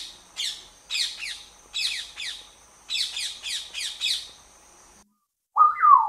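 Birds chirping: a run of short, high, falling calls, about two a second, over a faint steady high-pitched whine. The sound cuts off about five seconds in, and a single short, lower call comes near the end.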